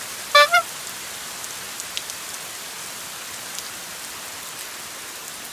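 Heavy rain falling steadily, a dense even hiss with scattered drop ticks. A brief rising pitched sound stands out about half a second in.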